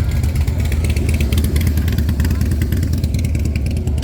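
A loud engine running steadily, with a crackling, rattling edge over a deep rumble.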